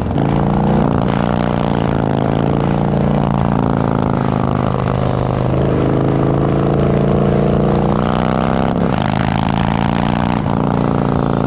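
Harley-Davidson Milwaukee-Eight V-twin running through an S&S Sidewinder 2-into-1 exhaust while riding under power, its pitch dropping with a gear change just after the start, then climbing and dropping again near the end.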